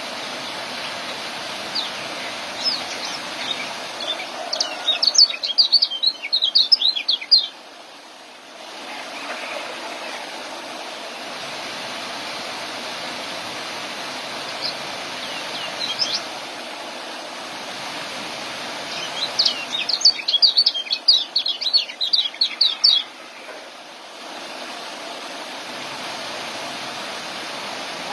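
Young kecial songbird singing its 'ngeriwik' twitter: two bursts of rapid high chirps, each about three seconds long, with a few single notes between them, over a steady rushing noise.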